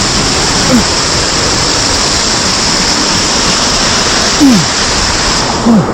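Falling water rushing steadily, a loud even hiss of a waterfall in a mountain stream. Three short low sounds falling in pitch break in about a second in, a little past the middle and near the end.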